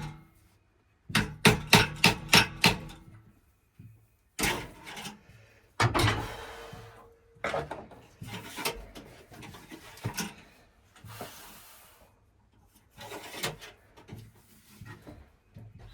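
Hammer blows in a quick run of about six or seven strikes, then scraping and rasping with scattered knocks.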